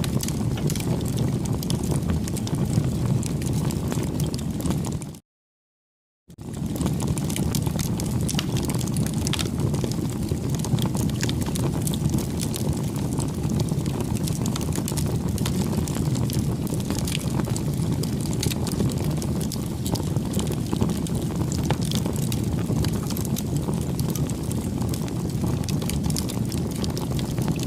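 Bonfire burning with a steady low rumble and many scattered sharp crackles and pops. The sound cuts out to silence for about a second, about five seconds in, then resumes.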